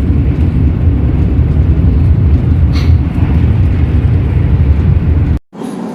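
Loud, steady low rumble of a train running at speed, heard from inside the carriage. It cuts off suddenly near the end and returns much quieter.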